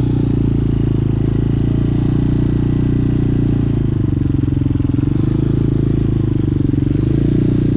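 Motorcycle engine running at steady low revs as the bike is ridden slowly.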